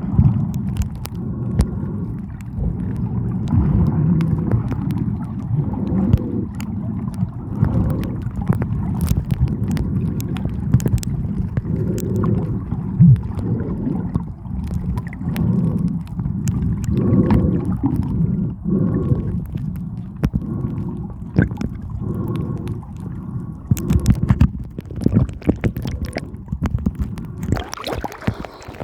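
Muffled underwater rumble from a camera in the sea: dull swells of water movement and gurgling, with scattered sharp clicks. Near the end a brighter hiss of splashing water rises.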